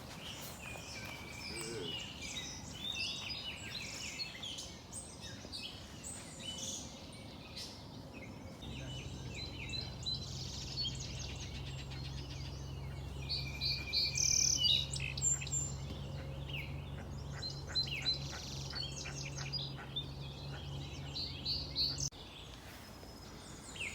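Several small birds singing and chirping in a morning chorus. From about nine seconds in, a steady low hum runs beneath them and cuts off suddenly near the end.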